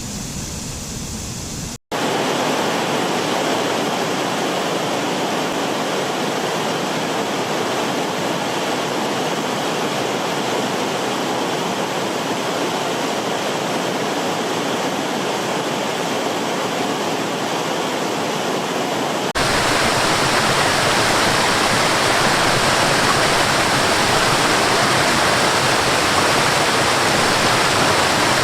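Waterfall: steady rushing water, a dense even wash of noise. A momentary dropout about two seconds in and a sudden jump to a louder, fuller rush about nineteen seconds in mark cuts between recordings of different falls.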